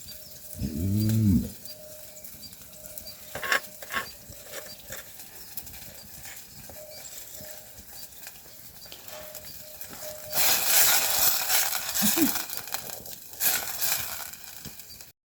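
A goat or sheep bleats once about a second in, a short arching call, with a brief second call near 12 s. A few clicks follow, and near the end come two stretches of loud hissing noise.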